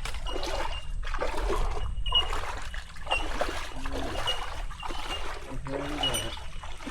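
Footsteps splashing through shallow lake water, a step about every second, while bell miners (bellbirds) call with short, high ringing notes every second or so.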